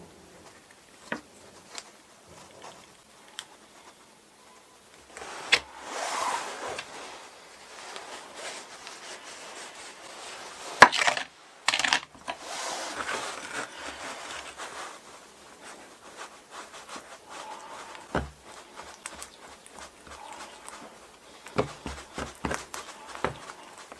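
Small handling noises at a workbench while epoxy is worked onto a piece of leather: scattered taps and clicks, with stretches of rustling and scraping. A sharp click about eleven seconds in is the loudest sound.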